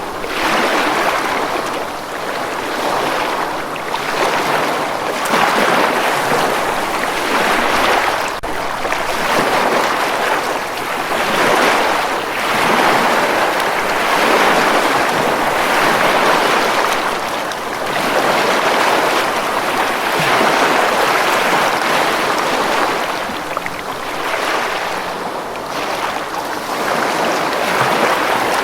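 Ocean surf washing onto a beach: a continuous rush of breaking waves that swells and eases every couple of seconds.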